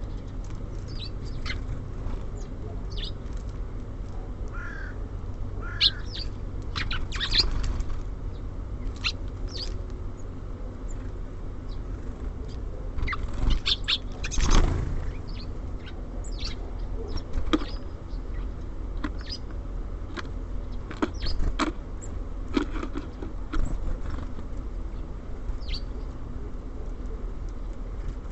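Small songbirds at a feeder giving short, scattered chirps and calls, with a loud flutter of wings about halfway through. A steady low rumble runs underneath.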